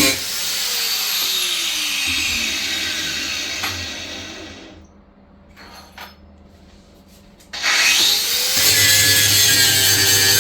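Electric power tool running at speed, then switched off and winding down with a falling pitch. After a few seconds of quiet with small clicks, it is switched on again and spins up with a rising whine to a steady hum.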